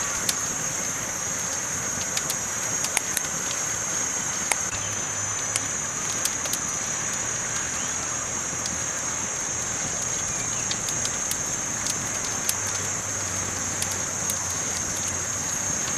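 Campfire burning, with scattered sharp crackles and pops over a steady high hiss.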